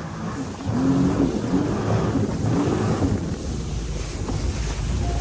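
Wind buffeting a phone microphone on a jet ski out on open water, over a steady low rumble of the engine and water.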